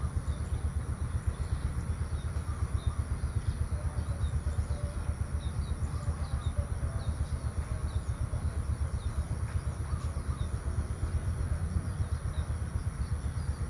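Countryside outdoor ambience: a steady low rumble that flutters rapidly, with small birds chirping faintly throughout and a steady high-pitched whine above them.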